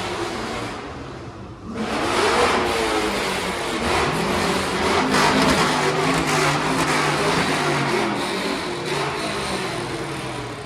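Loud car exhausts as engines rev and accelerate, the pitch climbing and falling. The noise dips briefly about a second in, then surges back loud near two seconds in and slowly tapers off toward the end.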